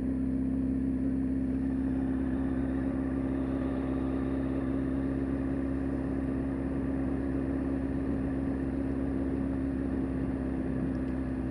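Motorcycle engine running at a steady, unchanging speed, a constant hum with no revving.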